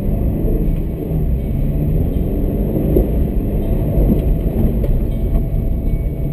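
Subaru BRZ's flat-four engine running and pulling away, heard from inside the cabin, with its pitch rising a little around the middle, over a steady low rumble of winter tyres on a snowy road.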